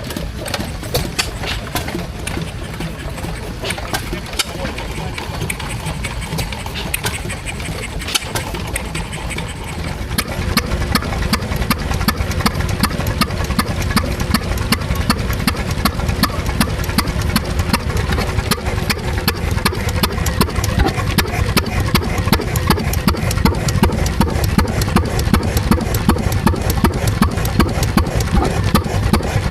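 Stationary engine running steadily with a rapid, even beat, getting louder about ten seconds in.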